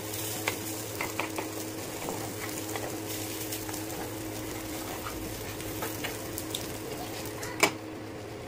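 Rava appe sizzling in oil in an appe pan, with a knife tip clicking and scraping against the pan's cups as the appe are turned over. A louder clink near the end as a glass lid is set on the pan.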